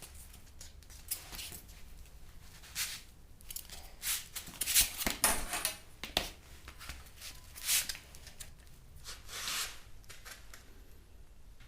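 Hand work on craft materials: about a dozen short scraping and rustling noises, irregularly spaced, the loudest around the middle.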